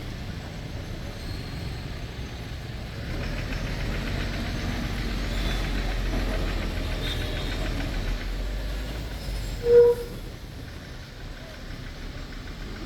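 Street traffic heard from a moving double-decker bus: a steady low engine rumble and hiss that swell for several seconds in the middle. A vehicle horn gives one short beep a little before the end, the loudest sound here.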